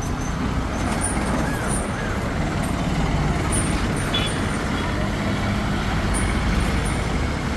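Steady road noise: a heavy vehicle's engine running, with the rumble and hiss of traffic.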